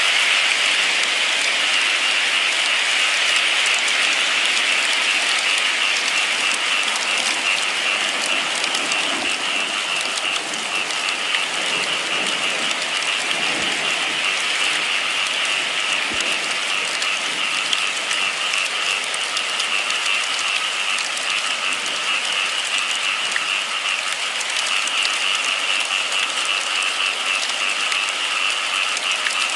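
Steady rain falling: a continuous, even hiss with a high-pitched band that holds throughout.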